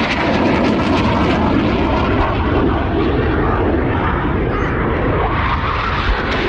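Aircraft flying over, its engine noise a loud, steady rush.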